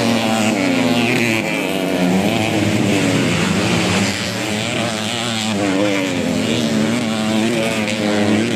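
Several underbone motorcycle engines revving hard together, their pitch rising and falling as the riders accelerate and back off.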